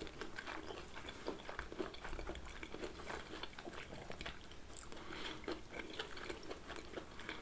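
Two people chewing mouthfuls of pizza close to the microphone, with a steady run of small mouth clicks and smacks.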